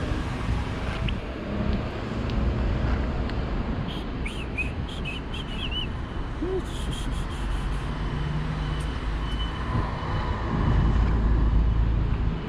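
Parrots giving short squeaky chirps in two brief bouts, about four seconds in and again around seven seconds, over a steady low rumble of traffic or wind.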